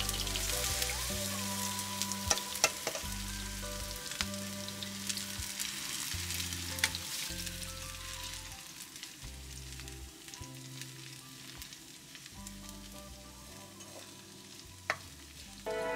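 Kimchi pancakes frying in shallow oil in a nonstick pan: a steady sizzle that gradually fades, with scattered sharp taps of a spoon and spatula against the pan.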